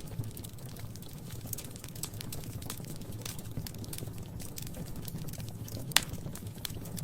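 Fire crackling in a fireplace: a steady low rumble of flames with frequent small crackles and one loud pop about six seconds in.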